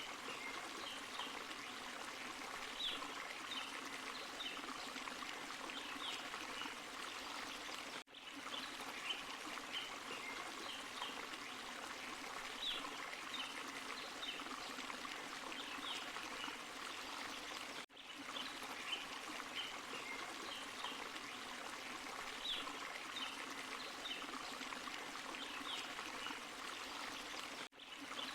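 Small forest waterfall and stream, water rushing and splashing steadily over rocks. The sound drops out sharply for an instant about every ten seconds, three times in all, where a short recording loops.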